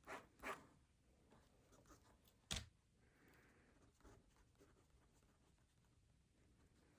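Quiet writing at a desk: two short pen strokes on paper just after the start, then a single sharp click about two and a half seconds in, and a soft brush of paper a little later.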